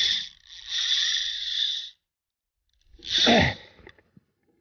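A man's short vocal exclamation about three seconds in, falling steeply in pitch like a grunt of effort as a fish takes the bait. Before it there is a steady high chirring that cuts off abruptly about two seconds in.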